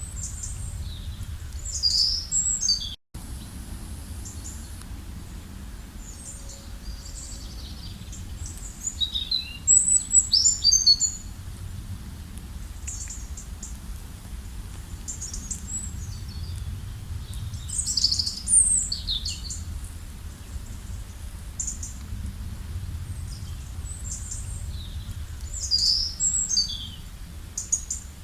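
A songbird sings a high, quick chirping phrase about every eight seconds over a steady low rumble. The sound cuts out for an instant about three seconds in.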